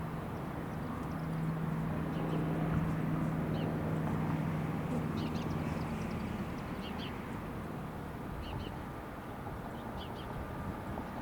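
Short, high bird chirps in pairs, repeating about every second and a half over outdoor background noise, with a steady low hum that fades out about two-thirds of the way through.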